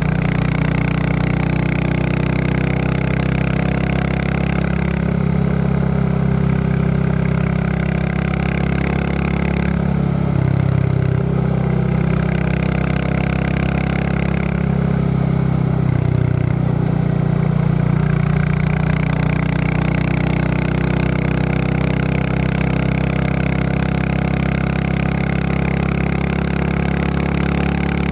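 Royal Enfield Classic 350's single-cylinder engine running with a steady thump, with brief changes in its note about ten and sixteen seconds in.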